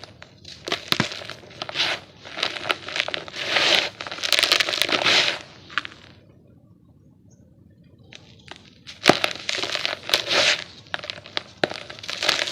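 Dry, gritty yellow dirt lumps being crushed and crumbled: a dense run of crunching and crackling, a pause of about two seconds midway, then more crunching that starts with a sharp snap.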